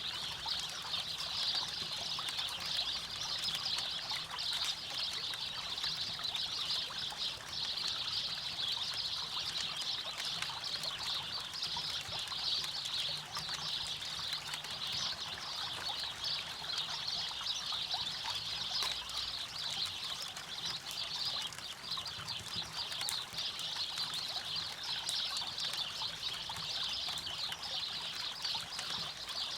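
River water rushing and trickling steadily, with many small crackles of a campfire scattered through it.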